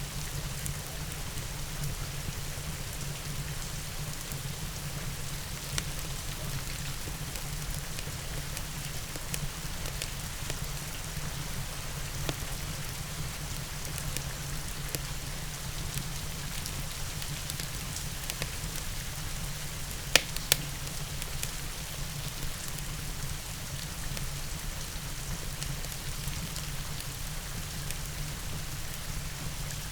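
Steady rain with a wood fire crackling, scattered sharp pops over the rain's even hiss and low rumble. Two loud pops come close together about two-thirds of the way through.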